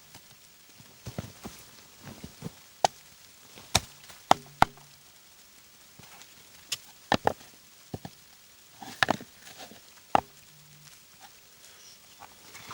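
About a dozen sharp knocks and taps, irregularly spaced, some with a brief low ring after them, like hard objects striking wood.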